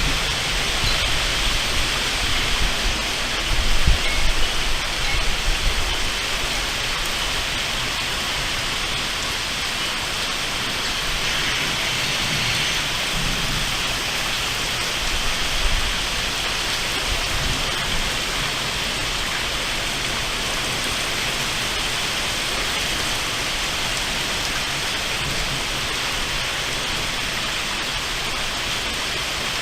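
Heavy rain falling steadily in a thunderstorm, an even rushing hiss, with a brief low rumble about four seconds in.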